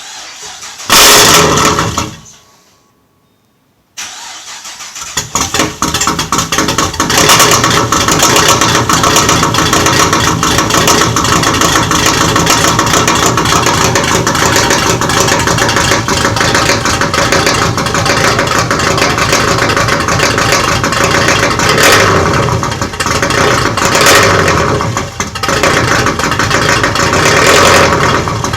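Cammed 2008 Pontiac G8 V8: a short loud burst about a second in that dies away, then the engine starts about four seconds in and settles into a loud, lumpy, pulsing run. With the cylinder-deactivation delete done without a tune, it fires on only four of its eight cylinders.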